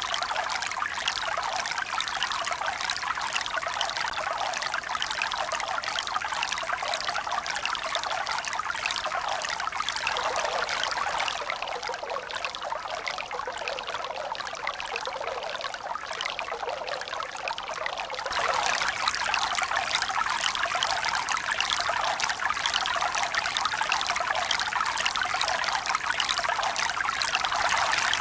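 Running water, a steady splashing and trickling flow. Its sound shifts about ten seconds in, and it grows louder and brighter at about eighteen seconds.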